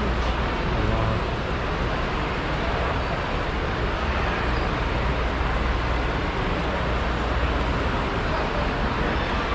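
Steady din of a crowd in a large exhibition hall: many voices blended into a continuous wash over a low hum.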